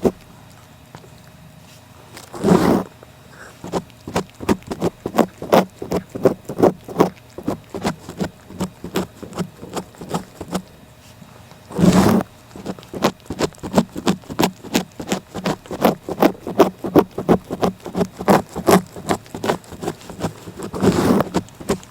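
Cat licking a microphone close up: a fast series of short rasping licks, about two to three a second, broken three times by a longer, louder rustle.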